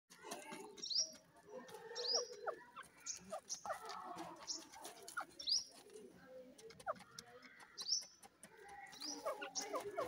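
Short high rising bird chirps repeated about once a second, over scattered scratching and pecking clicks as grey francolins dig in dry, stony soil.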